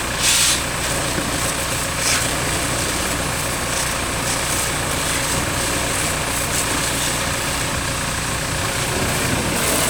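An engine idling steadily, with short bursts of hiss about a quarter second in, around two seconds in and near the end.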